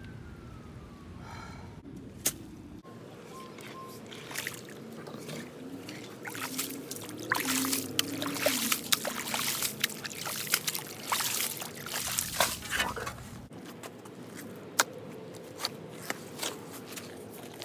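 Digging in wet, muddy ground around a buried leaking pipe: squelching and scraping with water sloshing, busiest in the middle stretch, with a few sharp knocks before and after.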